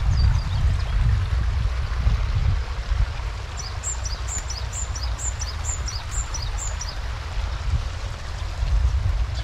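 A bird calling a quick run of about eight short, high notes, each falling in pitch, about three a second, through the middle, after a brief call at the very start. Behind it is a steady rushing noise, with a low rumble, of the kind running water or wind makes.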